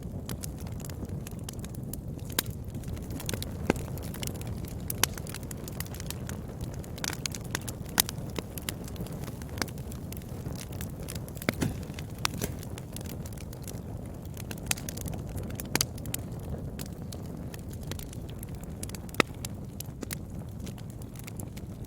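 Wood fire burning in a fireplace: a steady low rumble of flames with irregular sharp crackles and pops, a few louder ones standing out.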